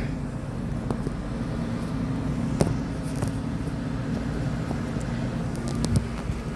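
Outdoor air-conditioner condenser units running with a steady hum, with a few scattered light clicks.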